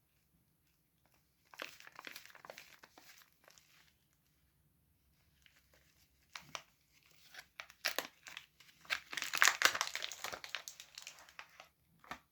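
Hands unwrapping a bar of soap: the wrapper crinkles and tears in bursts of crackling, heaviest about two-thirds of the way through.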